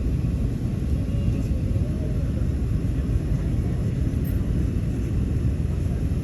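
Steady low rumble of an Airbus A380's engines and airflow, heard inside the passenger cabin.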